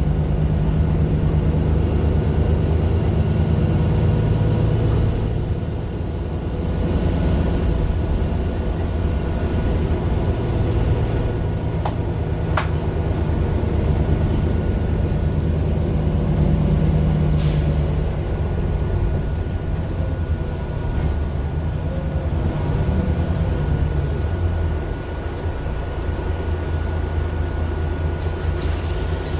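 Mercedes-Benz Citaro LE city bus with its Daimler OM 457 hLA six-cylinder diesel running steadily on the move, heard from inside the bus, with a couple of sharp clicks or rattles along the way.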